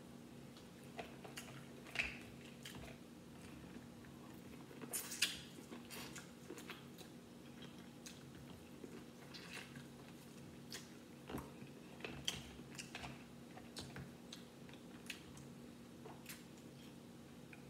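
Faint chewing and biting of food eaten by hand, with scattered short smacks and clicks, over a faint steady hum.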